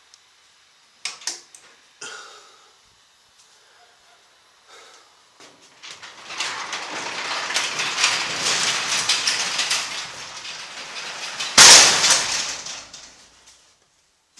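Garage door, released from its opener during a power outage, pulled down by hand: a few clicks near the start, then the rollers rattle along the tracks for several seconds and the door bangs shut at the bottom, which is the loudest sound.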